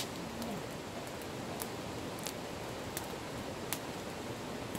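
Wood campfire crackling: a steady hiss broken by several sharp pops, the loudest right at the start.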